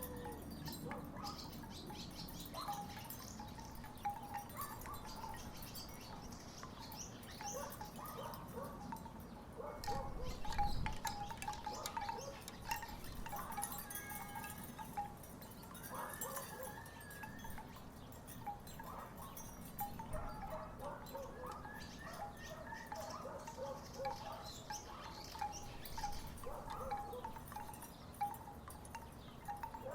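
Wooden tiki wind chimes knocking together irregularly in the breeze, giving short, hollow, pitched clonks that ring briefly.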